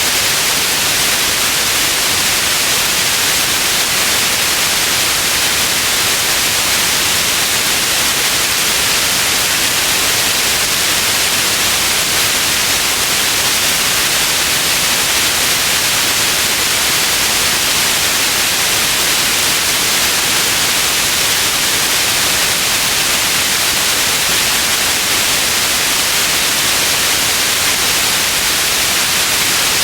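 Steady white noise: an even, bright hiss, strongest in the upper range, constant in level with no changes or breaks.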